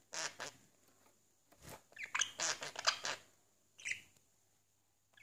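Budgerigar chattering in short scratchy chirps and clicks, with a quick run of chirps about two to three seconds in and a single chirp near four seconds.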